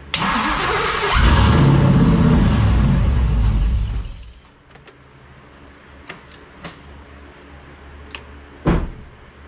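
6.0-litre LS V8 cranking on its starter for about a second, then firing and running loudly for about three seconds before it cuts out suddenly: its first start after the swap. A few light clicks and a sharper knock follow.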